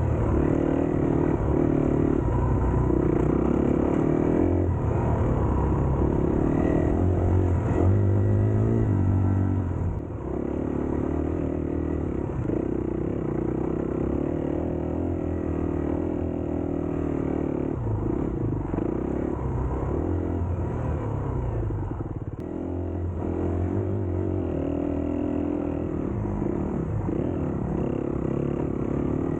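Dirt bike engine running under throttle while being ridden, its pitch rising and dropping as the rider works the throttle and gears.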